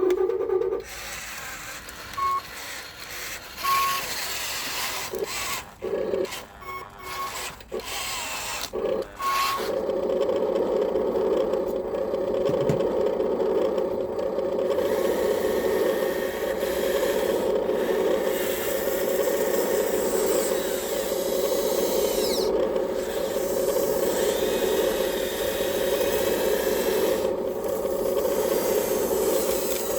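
Huina 1554 RC bulldozer's electric motors and gearbox whirring, in short stop-start bursts at first and then running steadily from about ten seconds in.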